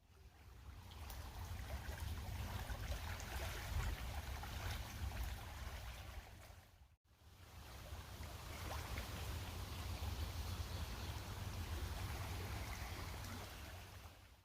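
Two stretches of steady outdoor rushing noise with a low rumble underneath, each fading in and out, with a brief silent cut about halfway through.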